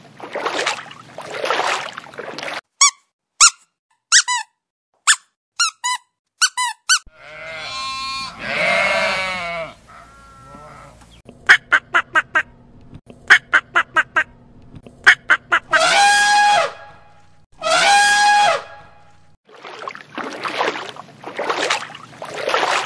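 A run of waterfowl calls cut together: short squeaky calls, a drawn-out honking call, a quick series of mallard duck quacks, then two long honks about two seconds apart. Bursts of noise sit at the start and the end.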